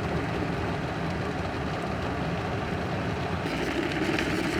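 Car driving on a winter road, heard from inside the cabin: steady engine and tyre noise, a little brighter and hissier about three and a half seconds in.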